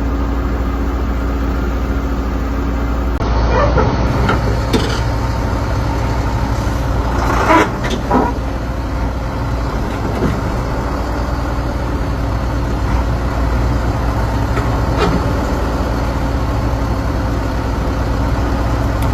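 Heavy engine idling steadily, with a few sharp metal knocks and clanks, the loudest about seven to eight seconds in.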